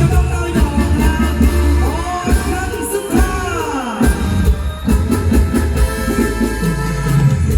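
Live mor lam band music: a heavy bass and drum beat under an amplified melody line that slides up and down in pitch.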